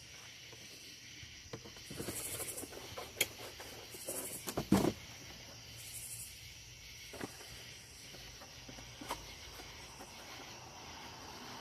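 Battery packaging being handled and cut open with a knife: scattered rustles and clicks, with a sharp knock about five seconds in.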